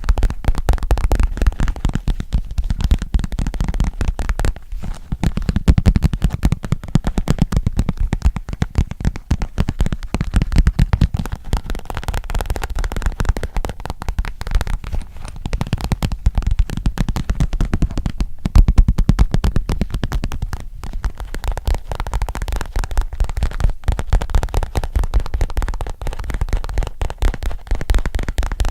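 Fast, continuous finger and nail tapping very close to a microphone, many taps a second, each with a deep, boomy low end.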